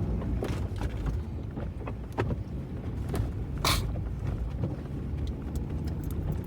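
Vehicle driving on a slippery, snow-covered road: a steady low engine and tyre rumble, with scattered clicks and a short rushing burst about three and a half seconds in.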